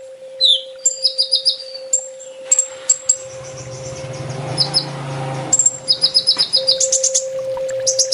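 Kolibri ninja sunbird singing: rapid series of thin, high chirps and short trills. Under it runs a steady low hum, and a rushing noise swells in the middle and fades about two-thirds of the way through.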